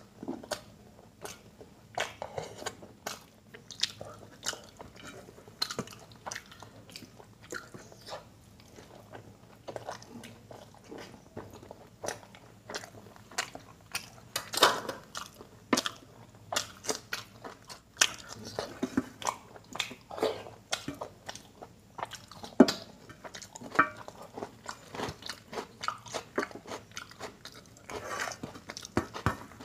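Close-miked eating sounds: wet chewing and lip smacks in quick, irregular clicks as curry, dal and paratha are eaten by hand, with fingers licked clean, and near the end the hand squelching food together on a steel plate.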